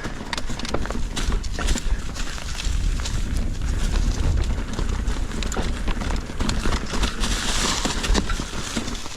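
Mountain bike rolling over a rocky, technical trail: a constant clatter of tyre knocks and frame and chain rattles over a low rumble and rushing noise.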